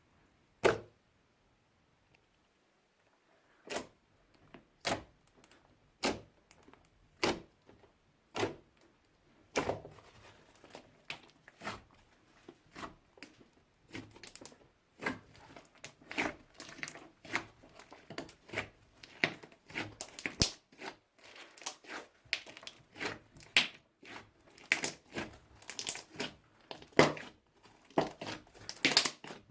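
Old slime being worked by hand, sticky pops and crackles as it is stretched and pressed. At first they come about once a second; from about ten seconds in they come fast and near-continuous.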